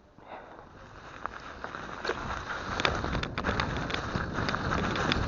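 Mountain bike ridden along a snowy trail: rushing wind and tyre noise build up over the first two seconds as it gathers speed. Sharp clicks and knocks from the bike rattling over the ground run through it.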